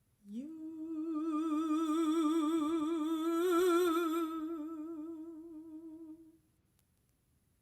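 A solo classical voice singing one long held note with wide, even vibrato, scooping up into the pitch at the start, swelling in the middle and fading away after about six seconds.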